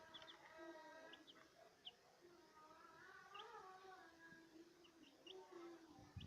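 Pet parrot calling softly: long, wavering pitched calls with brief high chirps between them.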